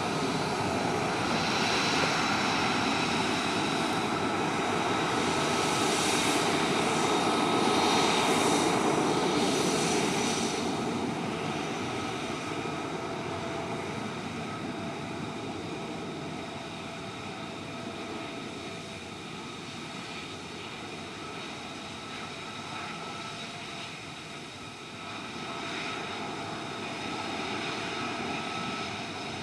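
An F-35 Lightning II's Pratt & Whitney F135 turbofan engine running as a steady rush with a high whine. It is loudest for the first ten seconds or so, then eases off.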